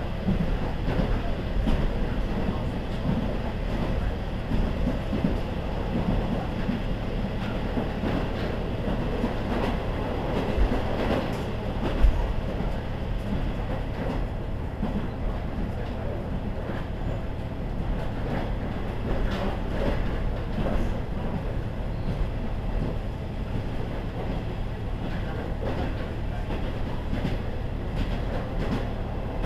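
KiHa 40 series diesel railcar running along the line: a steady rumble with occasional clicks, and one sharp knock about twelve seconds in.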